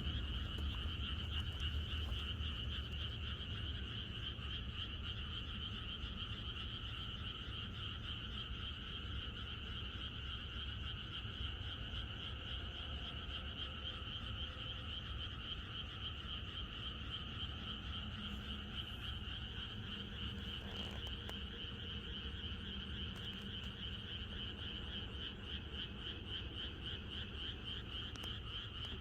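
A dense chorus of many frogs calling continuously, a steady mass of overlapping high croaks with a lower layer of calls beneath. A low rumble runs underneath, heaviest in the first few seconds.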